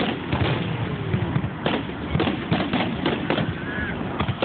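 Aerial fireworks going off: a string of about ten sharp bangs and cracks, irregularly spaced and bunched closely in the middle of the stretch.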